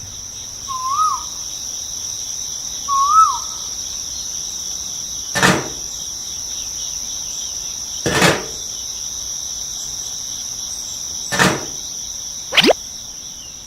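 A steady high insect trill, like crickets, runs throughout. Two short warbling chirps come about one and three seconds in. Three sharp clicks follow, roughly three seconds apart, and a quick falling whistle comes near the end.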